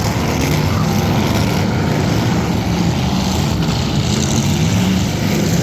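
Demolition derby cars' engines running together in a loud, steady wash of engine noise.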